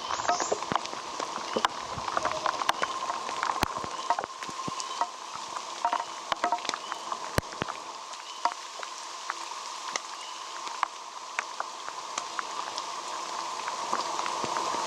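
Steady rain falling, with many sharp, irregular ticks of drops hitting close by.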